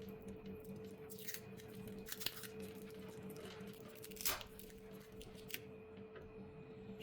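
Faint, scattered scrapes and clicks from hand tools working on a phone during repair, over a steady electrical hum. The loudest is a single sharp scrape or click about four seconds in.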